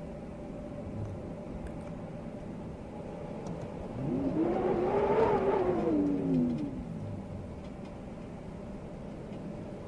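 A car passing by, its engine tone rising and then falling over about three seconds, loudest near the middle. Steady wind noise runs underneath.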